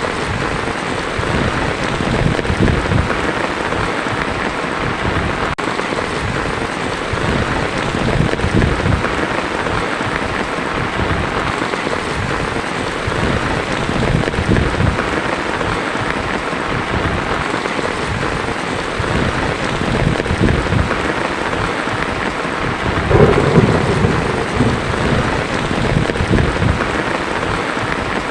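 Heavy rain falling steadily on a tin roof, with low rolls of thunder swelling and fading several times; the loudest roll comes about 23 seconds in.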